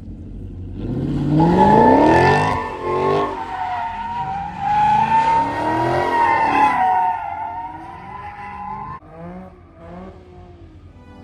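A car's engine revving up and down while its tires squeal in a long, steady screech, as in a burnout or donuts. The squeal fades about seven seconds in, leaving a few short revs.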